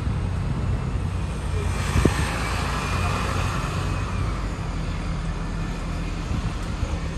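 Train station ambience: a steady low rumble with a hiss that swells for a couple of seconds, and a single sharp knock about two seconds in.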